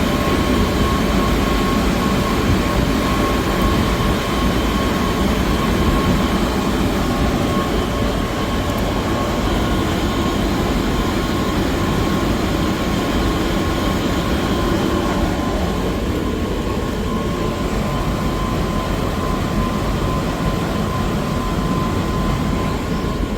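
Sirocco (centrifugal) exhaust fan running: a steady, loud rumble of air and machinery with a constant high whine over it.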